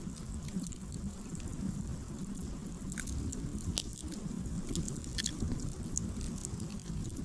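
Wood campfire crackling: scattered sharp pops and snaps of burning logs, louder ones about three and four seconds in and a cluster around five seconds, over a low steady rumble.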